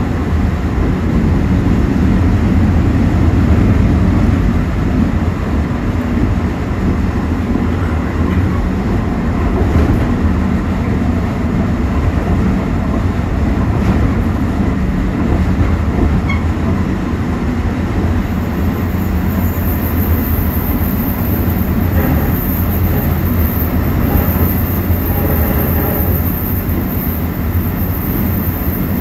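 Mugunghwa-ho passenger train running at speed, heard from inside its last car: a steady low rumble of the wheels on the rails and the rattling car body.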